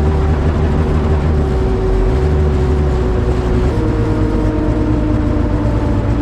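Turbocharged Honda CRX engine running on E85 while the car is driven, a steady engine note whose pitch shifts a little over halfway through as the engine speed changes.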